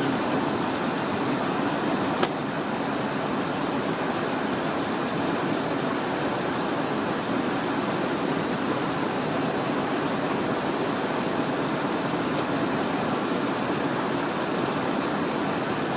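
Steady rushing cockpit noise of a Cessna Citation Encore business jet, with air and engine noise blended into an even low roar. A single sharp click sounds about two seconds in.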